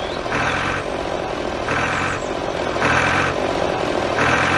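Tractor engine running steadily, with a pulsing sound about every 1.3 seconds as it moves.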